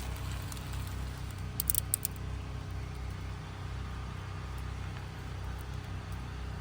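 A steady low hum, with a few brief sharp clicks about a second and a half in.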